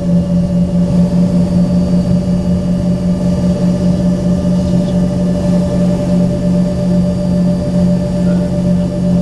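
Embraer ERJ-135's rear-mounted Rolls-Royce AE3007 turbofans heard from inside the passenger cabin: a loud, steady drone with a constant low hum and fainter higher tones that hold their pitch throughout.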